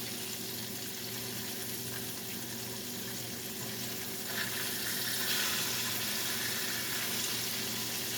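Salmon pieces frying in hot oil in a pan, a steady sizzle that grows louder and brighter about four seconds in, over a steady low hum.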